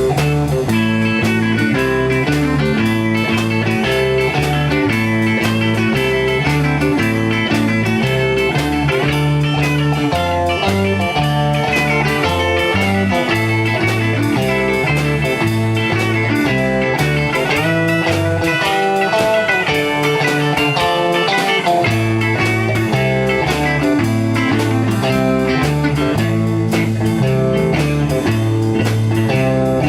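A band playing an instrumental blues-rock passage: electric guitar over a steady, rhythmic bass line. The bass drops out for a few seconds past the middle, then comes back.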